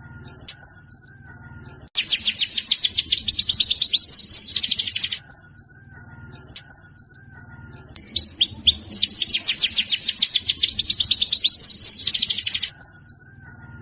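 Pleci (white-eye) birdsong: runs of short high chirps, about four a second, broken by several bursts of very fast high trills lasting up to two seconds each.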